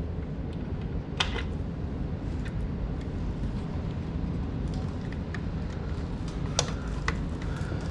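A few sharp clicks and knocks of parts being handled as a steam humidifier is reassembled and hooked back up, over a steady low hum.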